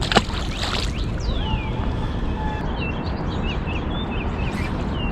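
Small birds chirping: a falling whistle, then a run of short repeated chirps, over a steady low outdoor rumble. There is a single sharp click near the start.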